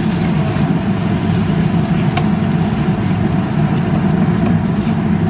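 Diced pork and chicken hearts frying in a pan, a steady loud sizzle with a strong low rumble, as a wooden spatula stirs them. There is a light tap of the spatula on the pan about two seconds in.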